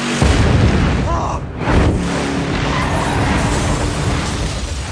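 Film disaster sound effects: a continuous loud rumble of crashing and debris, with two heavy booms, one just after the start and one about two seconds in.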